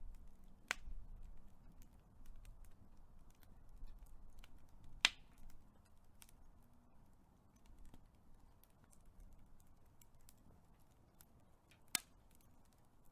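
Big wood fire burning and crackling: scattered small pops over a low rumble of flames, with three louder sharp snaps, about a second in, around the middle and near the end.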